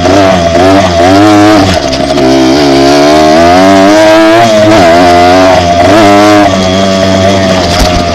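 Dirt bike engine running loud while being ridden, its pitch rising and falling again and again as the throttle opens and closes.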